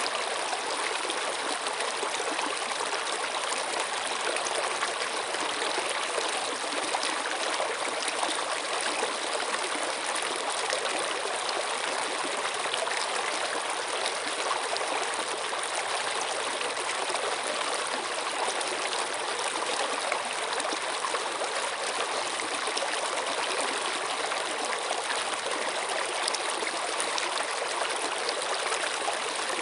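Running water flowing steadily, an even, continuous rush with no pauses or changes.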